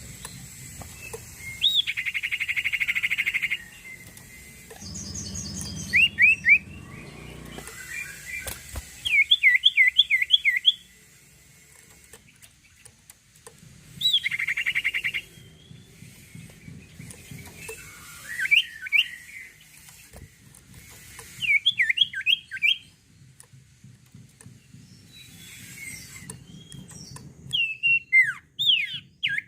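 Sirtu songbird singing in full voice: groups of three to six quick, sharp whistled notes repeated several times, broken twice by a dense, buzzy rapid trill, about two seconds and again about fourteen seconds in.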